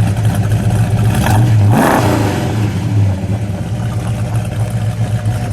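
1970 Dodge Charger R/T's 440 Magnum V8 with four-barrel carburettor idling, revved once with a quick blip of the throttle just under two seconds in, then dropping straight back to its idle rumble.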